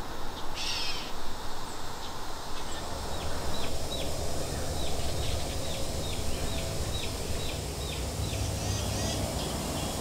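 A bird calling a long series of short, high, down-slurred notes, about three a second, starting about two seconds in, over a steady low outdoor rumble.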